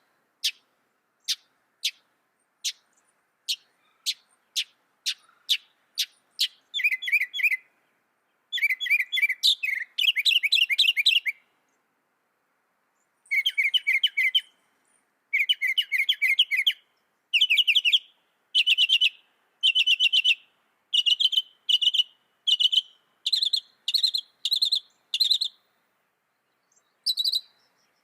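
Mockingbird singing: a run of sharp single chip notes, spaced at first and then quickening. Buzzy trilled phrases follow, each repeated several times in a row, then a run of shorter, higher notes repeated in quick succession, with brief pauses between bouts.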